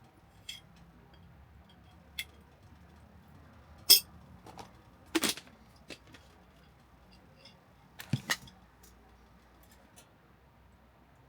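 Scattered sharp clicks and knocks at irregular intervals, the loudest about four seconds in, with small clusters at about five and eight seconds.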